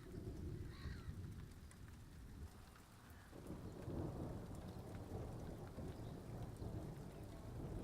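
Rain falling with a low, rolling rumble of thunder that swells louder about three seconds in.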